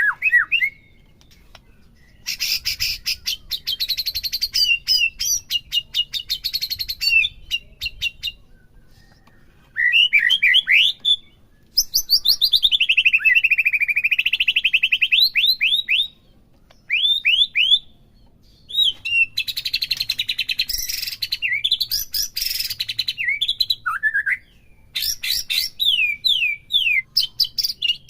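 White-rumped shama (murai batu) singing full song in separate bursts: rapid, dense chattering trills, a long run of quick repeated notes that dip in pitch and rise again, and clear slurred whistles. Pauses of about a second fall between phrases.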